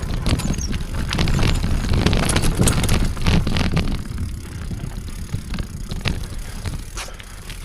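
Bicycle riding over a rough dirt trail, with a low rumble and many quick rattles and knocks from the bike. It is louder over the first four seconds, then eases off.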